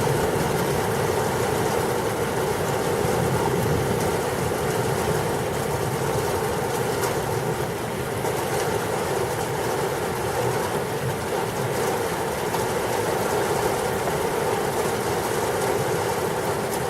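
Heavy rain pouring down in a thunderstorm, a constant rushing noise that holds steady throughout.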